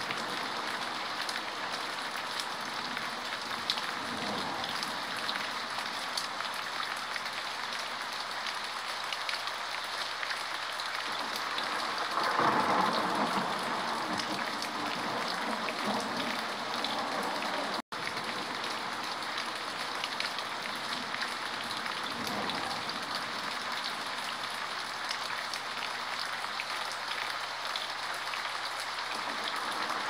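Steady rain falling, a dense even patter, swelling louder for a few seconds about twelve seconds in and again at the very end. A split-second dropout breaks it just past the middle.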